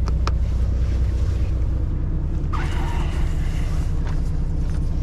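Semi-truck diesel engine idling steadily, left running to warm up, with a sharp click just after the start.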